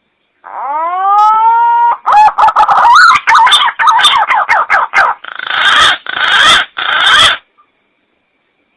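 Recorded green pigeon (punai) call played as a hunter's lure: a rising whistle, then a run of quick warbling whistled notes and three harsher, noisier notes, stopping about seven and a half seconds in.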